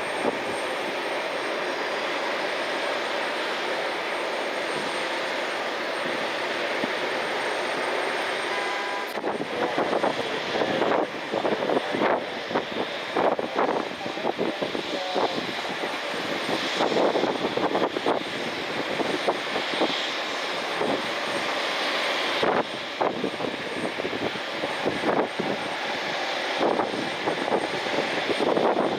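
Airliner engine noise, steady for the first nine seconds or so, then rougher and unsteady with repeated swells.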